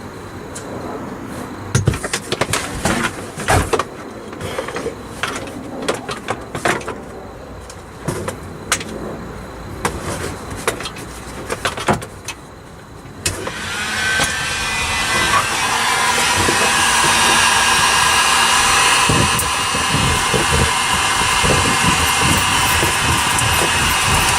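Scattered knocks and clicks of sound-deadening sheets being handled and pressed, then about 13 seconds in a heat gun switches on and blows steadily with a faint whine.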